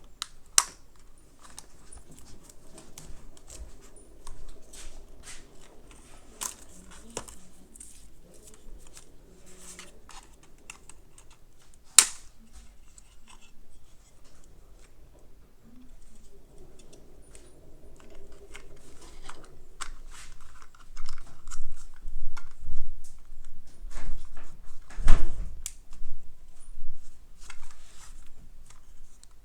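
Unboxing handling: scattered sharp clicks and rustling of packaging and small plastic parts, growing into louder knocks and bumps in the last third.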